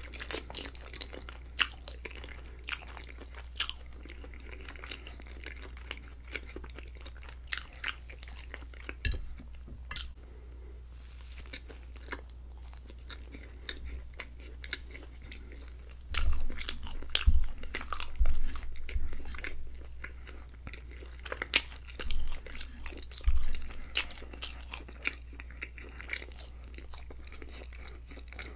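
Close-miked wet chewing and mouth clicks of someone eating creamy fettuccine Alfredo and garlic bread. Louder crunchy bites and chewing come in two spells, one just past the middle and one a few seconds later. A steady low hum sits underneath.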